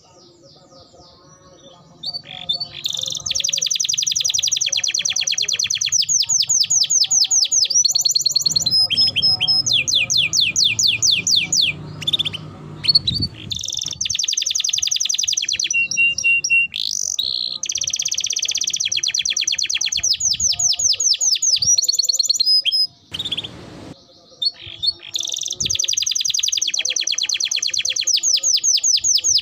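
Domestic canary singing long, fast trills: rapid runs of repeated high notes that switch from one note type to another. It starts about two seconds in and breaks off briefly about three-quarters of the way through.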